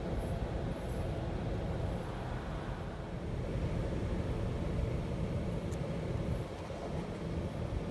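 Steady low rumble of a car's engine and cabin noise, picked up by a dashcam.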